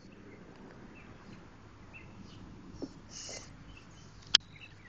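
Faint background with a few short, high bird chirps, and one sharp click near the end.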